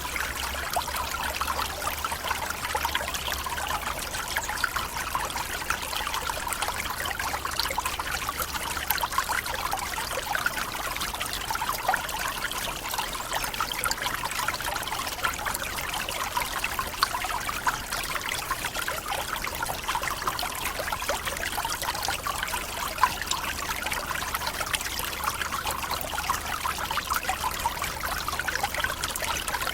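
Waterfall in a tropical forest: a steady splashing and trickling of falling water that holds the same level throughout.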